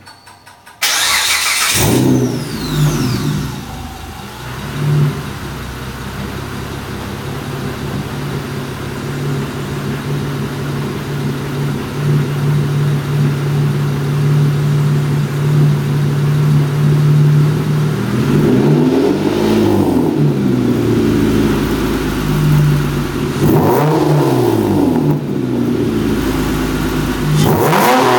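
Mitsubishi Eclipse GT's 3.8-litre V6 starting up with a short surge, then idling steadily before being revved three times, each rev rising and falling back to idle. The car has a throttle-body bypass, washers in the cat-back exhaust and the intake resonator removed.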